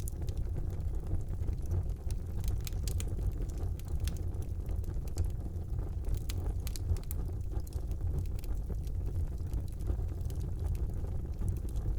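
Wood fire burning in a fireplace: a steady low rumble of flames with frequent small crackles and snaps scattered throughout.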